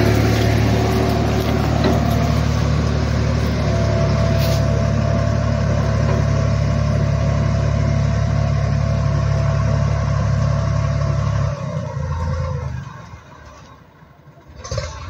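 Tractor engine running steadily at working speed with machinery clatter, then dropping away suddenly about eleven seconds in, leaving a much quieter background.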